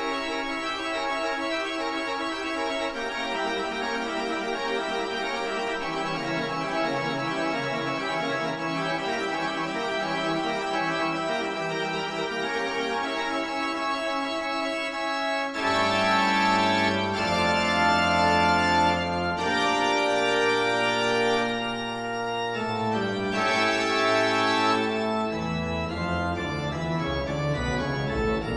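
Background organ music with long held chords, turning louder and fuller about halfway through.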